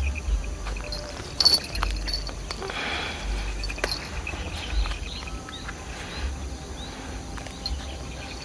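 Open-air ambience: wind rumbling on the microphone with a few sharp knocks, the loudest about a second and a half in. Short high chirps from small birds come through, more of them in the second half.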